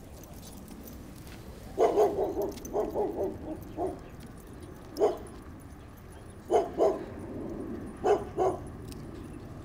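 A dog barking: a quick run of barks starting about two seconds in, then a single bark and two pairs of barks spaced a second or two apart.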